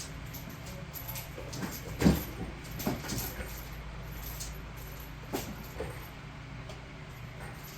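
Kittens playing, with a few scattered soft knocks and thumps, the loudest about two seconds in, over a steady low hum.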